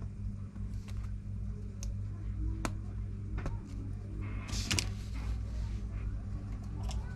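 Scattered small clicks and taps of tools and small phone parts being handled while a replacement screen is tried on an iPhone 8, with a short rustling scrape about four and a half seconds in, over a steady low electrical hum.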